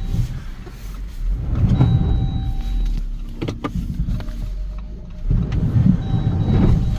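Jeep Compass Trailhawk engine revving in surges while its wheels spin and grind in deep snow, the SUV rocking to break free. A steady electronic warning tone from the car sounds for about a second, twice.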